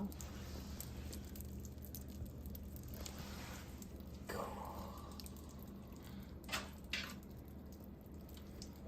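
Faint fizzing and popping of a volcano kit's foaming eruption mix (eruption powder, water and dish soap) as it bubbles out, with a few soft drip-like clicks about six and a half and seven seconds in.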